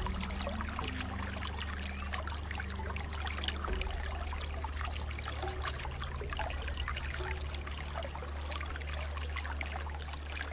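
Water trickling and babbling steadily, like a small stream, over a low sustained drone.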